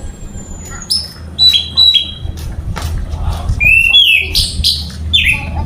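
Orange-headed thrush (anis merah) singing vigorously: a quick run of sharp, clear whistled notes, most sliding down in pitch, with buzzier phrases from about three and a half seconds in. A steady low hum runs underneath.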